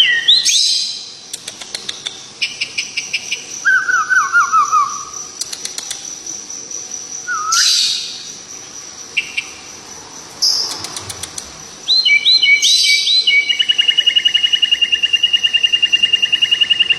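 Songbird singing in varied phrases of quick repeated notes and sharp upward sweeps, ending in a long, fast, even trill over the last five seconds.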